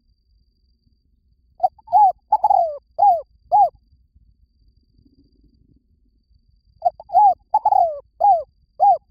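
Spotted dove cooing: two phrases a few seconds apart, each of about five short falling coos. It is a decoy dove's call, as played to lure wild doves.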